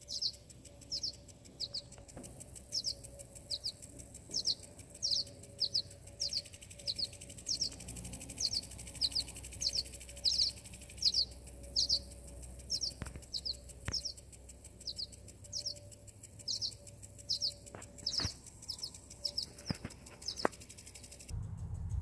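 Birds at a nest chirping over and over: short, high, falling chirps, about three every two seconds. A few faint clicks in the second half.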